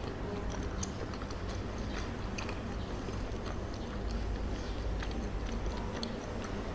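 Close-miked chewing of soft chocolate-dusted mochi, wet sticky mouth sounds with scattered small clicks throughout, over a steady low rumble.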